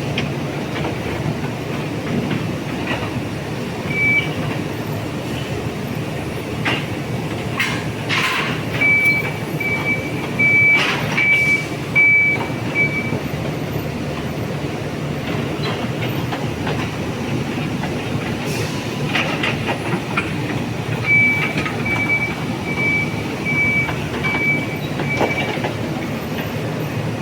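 High reach truck working: a steady machine hum and rumble, with runs of evenly spaced high-pitched warning beeps, about six midway and about seven near the end. A few sharp knocks and clanks come in between.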